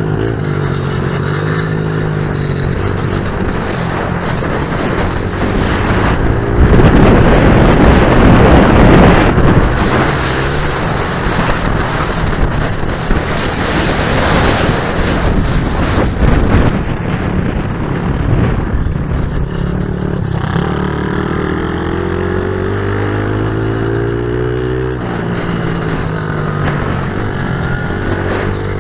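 Pit bike engines revving up and down under throttle, loudest for a few seconds about a quarter of the way in.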